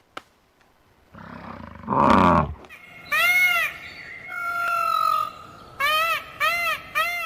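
A big cat roars once, low and rough, and then comes a series of short, arched animal calls, the last three in quick succession near the end.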